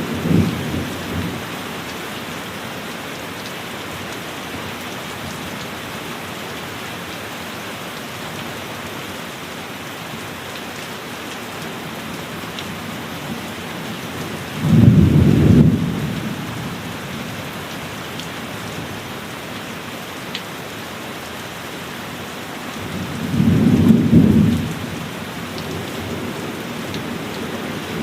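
Steady heavy rain with thunder. A low rumble fades out in the first second, then two more rumbles of about a second and a half come roughly halfway through and again near the end.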